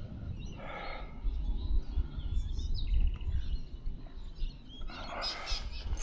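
Birds chirping over a steady low rumble, with a short rush of noise about five seconds in.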